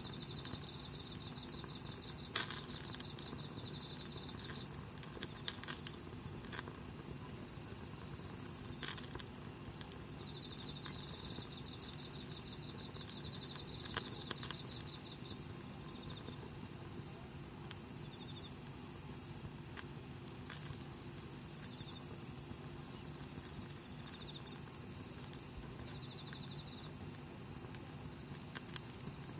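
Insects trilling in repeated bouts over a steady high-pitched shrill, with scattered sharp pops and crackles from the wood campfire.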